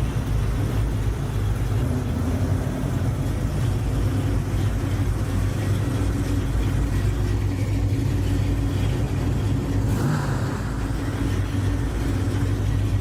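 A car engine running steadily at a low, even pitch, with a brief change in the sound about ten seconds in.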